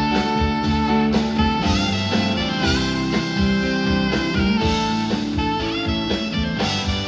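Live band playing an instrumental passage of a soft-rock song: a saxophone leads the melody over guitar, bass and drums.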